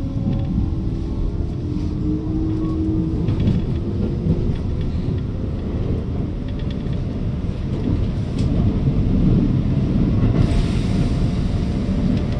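Electric commuter train running, heard from inside the car: a steady low rumble of wheels on rails, with a faint rising motor whine in the first few seconds and a hissier stretch near the end.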